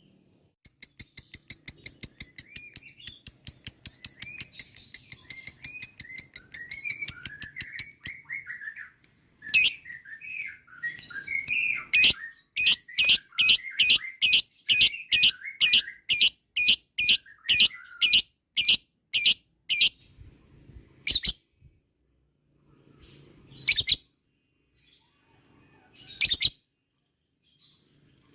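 Lovebird ngekek chatter: a long, fast string of sharp, high-pitched notes lasting about eight seconds. Then comes a slower run of louder shrill notes, about two a second, that thins out into a few single calls near the end, with softer twittering underneath.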